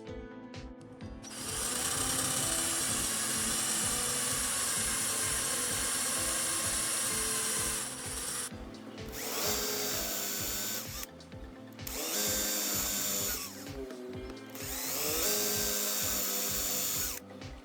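Handheld electric power tool run in four bursts: one long run, then three shorter ones, each starting with a rising whine as the motor spins up, with background music underneath.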